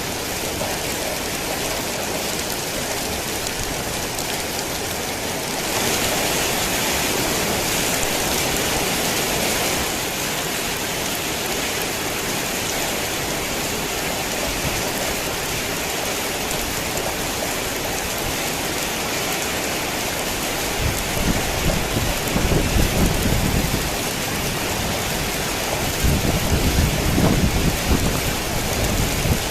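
Heavy rain pouring steadily, briefly heavier for a few seconds about a fifth of the way in. Low rolls of thunder rumble twice in the second half.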